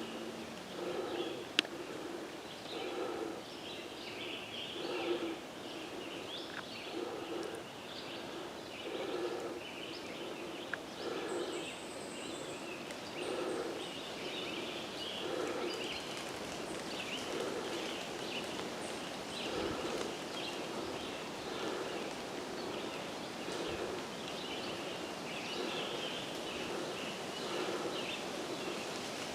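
Steady walking footsteps on a trail, about one step a second, each step with a scuffing rustle.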